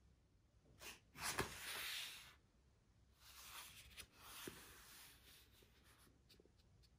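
Soft rubbing or rustling handling noise in two stretches, starting about a second in and again about three seconds in, each with a light knock, then a few faint ticks near the end.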